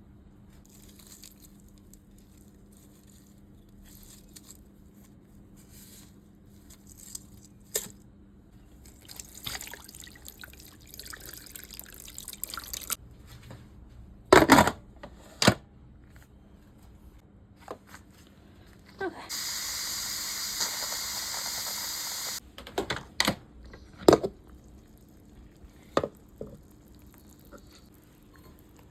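Kitchen work sounds: scattered knocks and clatter of utensils and cookware, and a tap running steadily for about three seconds past the middle.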